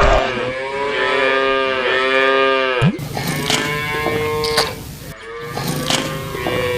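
Cows mooing: several long, drawn-out calls that overlap, with an abrupt change in the sound about three seconds in.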